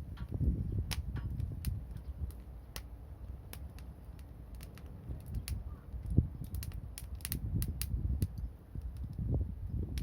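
Wood fire crackling, with sharp irregular pops and snaps over a low rumble.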